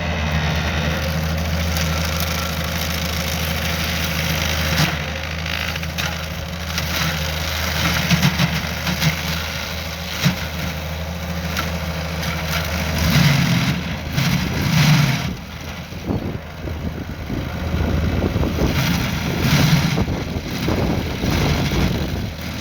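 Skid steer engine running steadily. From about 13 seconds in, its load rises and falls with repeated surges of noise as the tree-mulcher attachment works.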